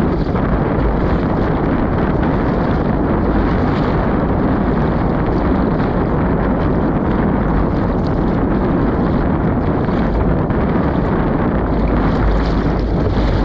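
Strong wind blowing across the microphone, a loud, steady rush without letup.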